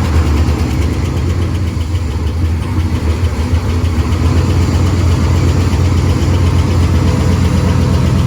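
Truck engine freshly fitted with a mild stage 1.5 camshaft, idling steadily just after its first start. Any cam chop in the idle is slight, barely noticeable.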